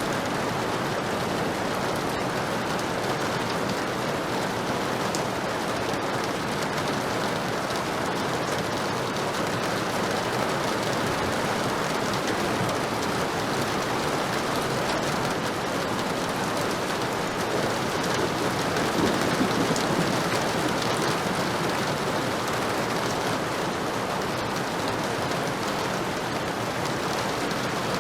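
Heavy rain falling steadily as a dense even hiss, with faint pattering drops. It swells briefly about two-thirds of the way in.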